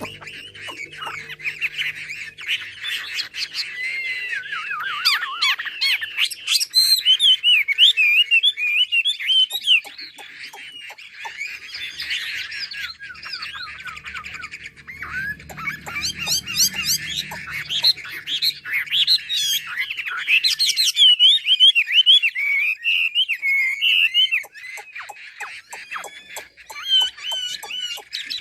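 A caged laughingthrush (chim mi) singing: a long, continuous run of rapid warbled phrases and clear whistled notes.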